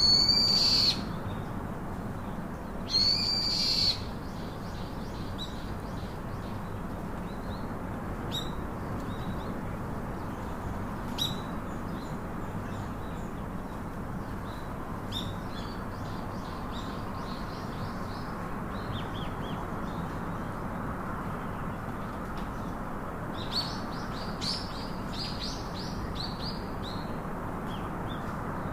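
Wild birds calling: two loud, drawn-out high calls, at the start and about three seconds in, then scattered short chirps and a quick run of chirps near the end, over a steady background hiss.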